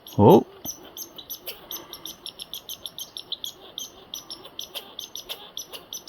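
Red squirrel chattering: a fast, steady run of short, high-pitched chirps, several a second.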